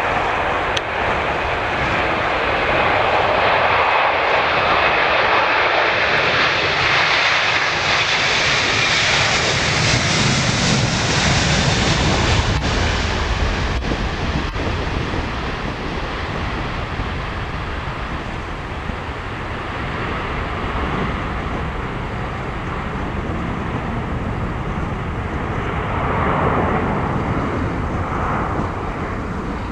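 Airbus A330-300 twin-jet taking off, its jet engine noise swelling to a peak about ten seconds in, with a deep rumble, then slowly fading as it passes and moves away.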